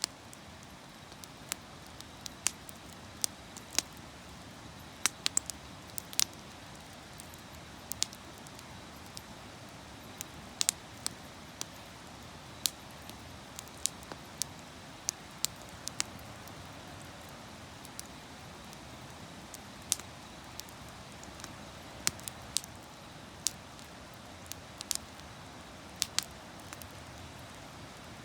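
Wood fire burning, crackling with irregular sharp pops and snaps over a steady low hiss.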